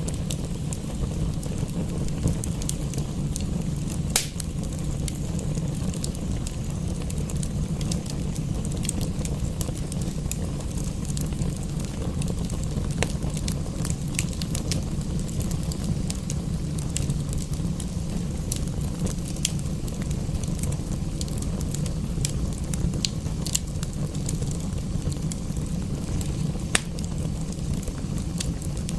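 Wood fire in a fireplace crackling, with scattered sharp pops, the loudest about four seconds in and another near the end, over a steady low rumble.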